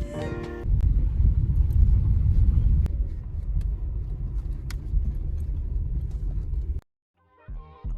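Steady low rumble of a car on the move, heard from inside, with a few light clicks; it cuts off suddenly near the end.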